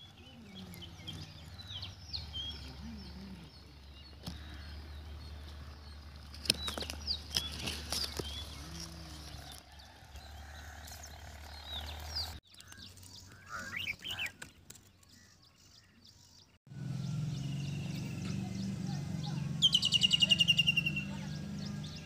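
Small birds chirping in short, scattered calls over a low steady background hum, which changes abruptly twice. Near the end comes a loud, rapid run of chirps lasting about a second and a half.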